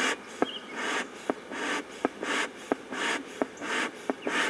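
Beekeeper's smoker bellows being pumped repeatedly, each squeeze giving a short hiss of air followed by a click, about one and a half puffs a second, to work up more smoke for the hive.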